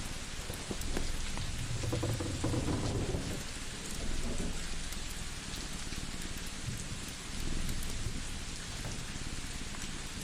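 Steady hiss of rain on a surface with scattered small crackles, and a low rumble of thunder about two seconds in.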